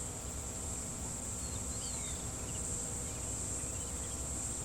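Steady, high-pitched chorus of insects, with a few faint short chirps about a second and a half in.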